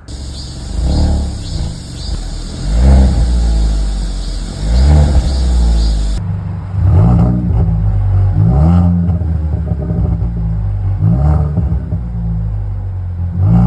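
Hyundai Tucson N Line with an aftermarket tuned exhaust, revved in short blips about every two seconds over a steady, loud low exhaust drone.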